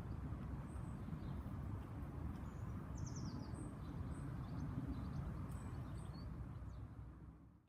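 Wind rumbling on the microphone outdoors, with small birds chirping and trilling in short high calls; the sound fades out near the end.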